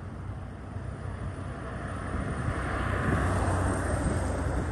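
Steady outdoor rumble of wind on the microphone mixed with road traffic noise, swelling a little around the middle.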